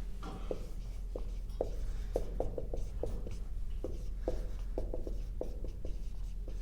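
Writing on a classroom board: a string of short taps and scratches as letters are written out, about three a second.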